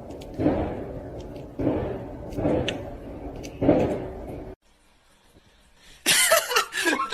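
A series of four heavy thumps or bangs, about one a second, over a low rumble, which stop abruptly partway through. Near the end a loud, wavering sound with a bending pitch begins.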